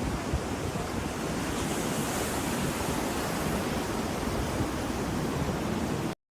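Ocean surf washing onto a shore: a steady, rushing sound with a low, shifting rumble. It cuts off suddenly near the end into silence.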